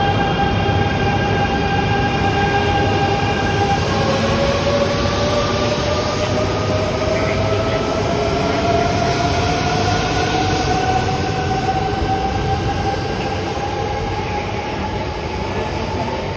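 JR East E926 'East i' Shinkansen inspection train pulling away, its traction motors whining over the rolling noise. About four seconds in, the whine drops to a new, lower tone, then rises steadily in pitch as the train picks up speed. The sound grows a little fainter near the end.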